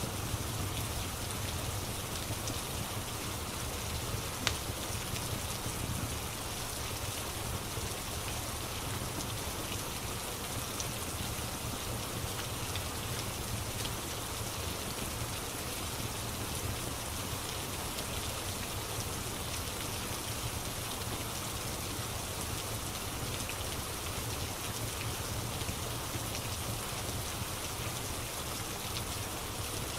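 Steady rain with faint crackles from a wood fire, one sharp pop about four and a half seconds in.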